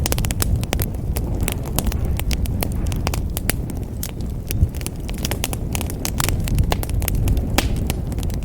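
Wood fire burning in a fireplace: irregular crackles and pops, several a second, over a steady low rumble of the flames, with one louder pop about halfway through.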